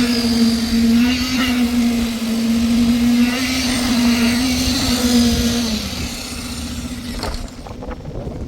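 A motor running at a steady pitch, then winding down and stopping about six seconds in.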